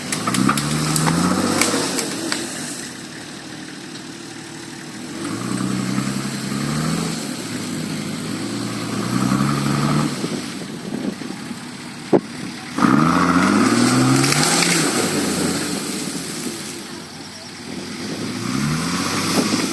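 A motor vehicle's engine revving up and easing off again about five times under load, with one sharp knock about twelve seconds in.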